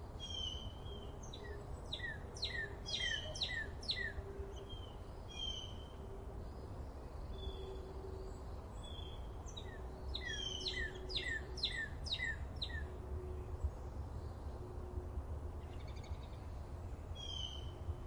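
A small songbird singing: two runs of six or seven quick downward-sweeping notes, several seconds apart, with scattered short chirps between them, over a steady low background rumble.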